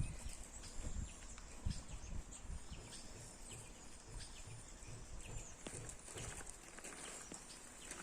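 Faint outdoor ambience: a steady high hiss with scattered short high chirps and soft, irregular low thumps and rustles.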